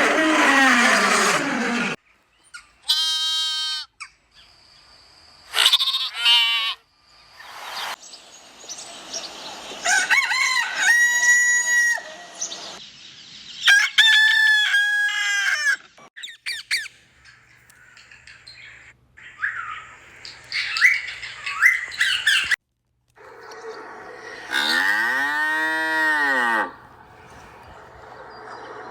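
A run of separate animal calls cut one after another, among them roosters crowing in long held calls.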